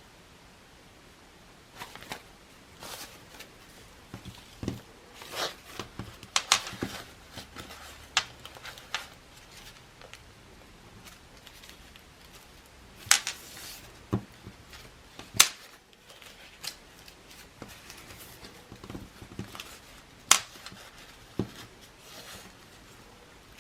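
Craft materials being handled at a work table: irregular rustling with scattered sharp clicks and taps, the loudest a few single snaps near the middle and later on.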